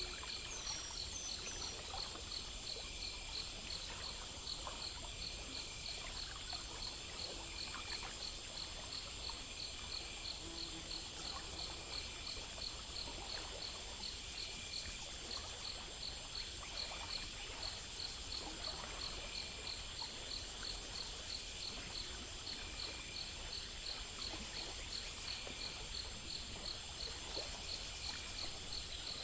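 Night chorus of crickets and other insects: high chirps repeating in a steady, even rhythm over a continuous high-pitched drone, with a faint low rumble underneath.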